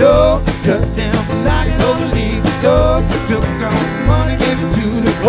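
Live band playing an instrumental passage of a country-rock song: guitars and bass over a steady drum beat, with a lead line that slides between notes.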